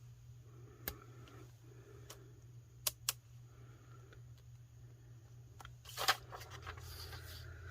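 Paper and small craft pieces being handled on a desk: a few light clicks and taps, then brief paper rustling near the end.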